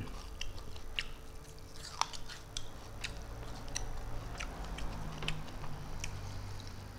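A person chewing a mouthful of food close to the microphone, with scattered small wet clicks and smacks.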